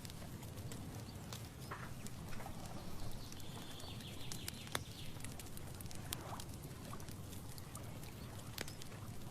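Outdoor nature ambience: a steady low rumble with scattered sharp ticks and a few short calls, including a higher, thinner call about three seconds in that lasts a couple of seconds.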